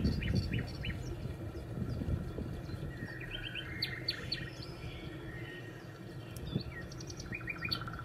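Birds chirping in short clusters of quick, high notes, several times over the few seconds, over a steady low rumble.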